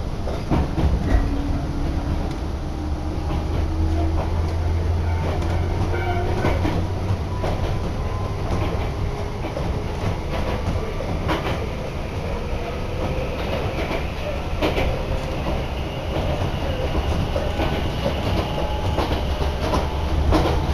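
Passenger train running, heard from inside the car: a steady low rumble, a hum that rises slowly in pitch over the first several seconds, and scattered clicks of the wheels over the rail joints.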